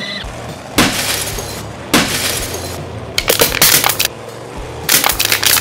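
Four bursts of smashing, breaking-glass crash sounds, each about a second long, over background music.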